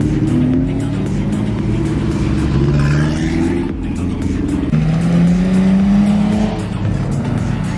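Car engines accelerating past, their pitch rising in several separate pulls.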